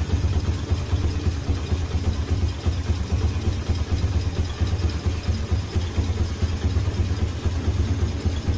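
Yamaha Jupiter Z motorcycle's single-cylinder four-stroke engine idling steadily, with an even low pulsing rumble and no revving.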